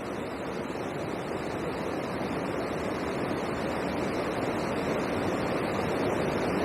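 Steady rushing of water pouring over a river weir, slowly growing a little louder.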